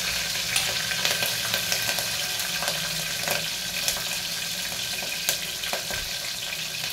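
Green chillies sizzling in hot oil with a cumin and mustard-seed tempering, at the bottom of an aluminium pressure cooker. A steady frying hiss runs throughout, with frequent small crackles and pops.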